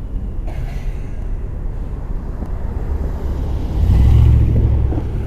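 Street traffic: a motor vehicle passing, a low rumble that swells to its loudest about four seconds in and then eases off.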